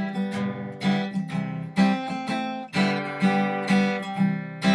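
Acoustic guitar strummed in a steady rhythm, chords struck about once or twice a second.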